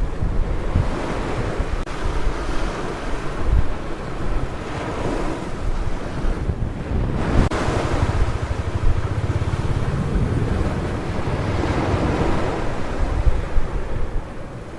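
Ocean surf washing onto a beach, swelling and easing several times, with wind buffeting the microphone as a low rumble.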